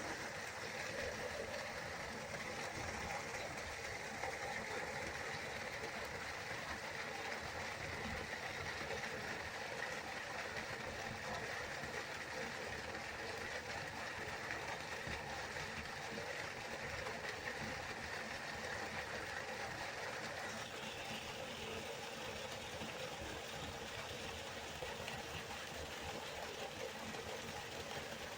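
River water flowing in a steady, even rush; its tone shifts slightly about two-thirds of the way through.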